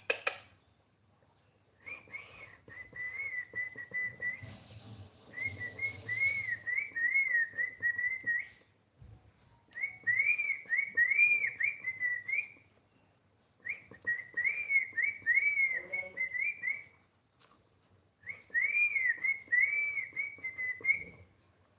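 Cockatiel whistling a tune in five bouts of quick warbling notes, each a few seconds long, with short pauses between them.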